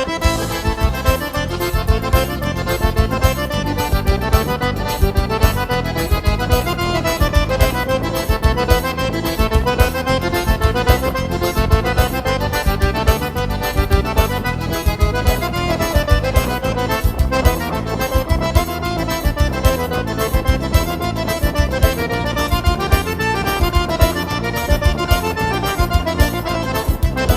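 Accordion music with a steady, driving beat and bass, playing continuously.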